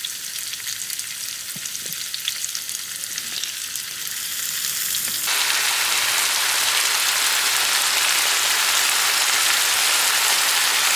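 Food sizzling in a hot skillet, with a few light clicks of stirring. About five seconds in the sizzle turns suddenly louder and fuller, and it stays so.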